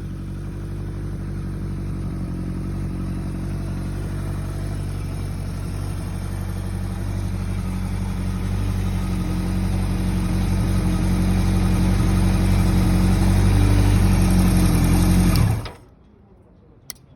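Kawasaki KZ900's air-cooled inline-four engine running and growing steadily louder, then shut off abruptly about fifteen seconds in. A single click follows shortly after.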